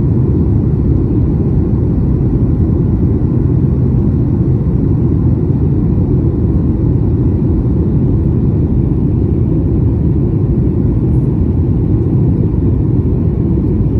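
Steady low rumble of an airliner in flight, heard inside the cabin: engine and rushing-air noise, unchanging throughout.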